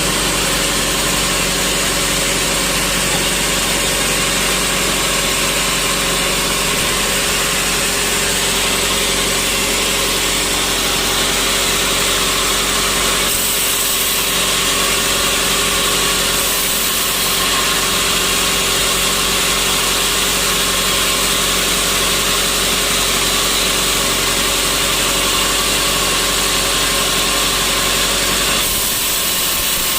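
Sawmill machinery running steadily, a constant mechanical drone with a steady hum and hiss. Its tone shifts slightly about halfway through and again near the end.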